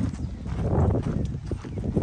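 Footsteps on a dirt woodland trail, an uneven run of soft thuds, with rumble on the microphone as the camera is carried.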